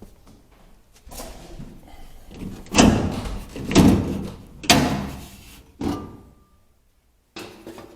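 Sheet-metal furnace access panel being pulled off and handled: four loud clanks about a second apart, with rattling and scraping between them.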